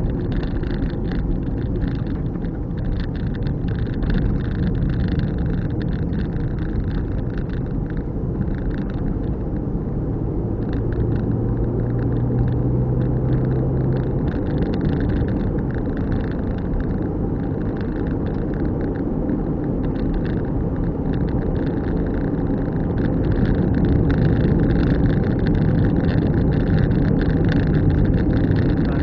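Car driving along an open road: steady engine and tyre rumble, with a low steady hum for a few seconds about ten seconds in and a slight rise in loudness near the end.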